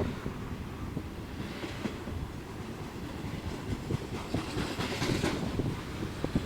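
Train cars rolling past on the BNSF main line: a steady low rumble of wheels on rail, with irregular clicking and clacking as the wheels cross rail joints.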